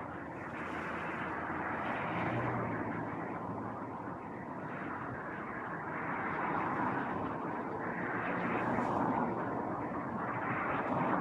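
A steady outdoor rushing noise that swells and eases every few seconds, with a faint low hum underneath.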